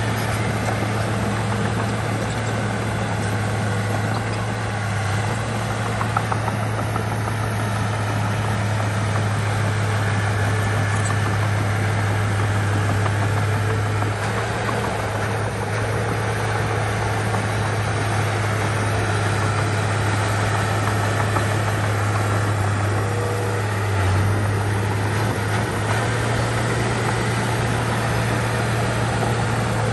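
Bulldozer's diesel engine running steadily, with a constant low drone and a brief dip in its note about 24 seconds in.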